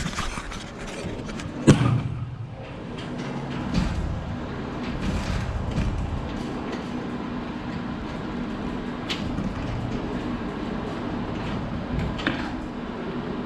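A sharp metallic knock, then a steady mechanical hum with a low even tone and a few light clicks.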